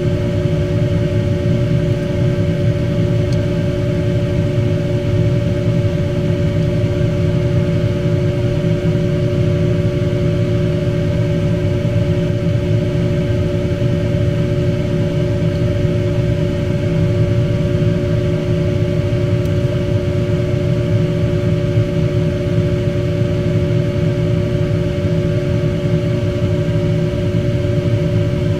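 Steady mechanical hum: a constant low rumble with two held tones above it, unchanging throughout.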